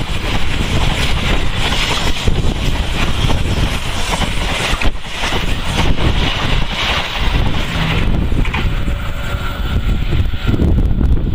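Passenger train rolling past, a loud steady rumble of wheels on the rails with wind buffeting the microphone.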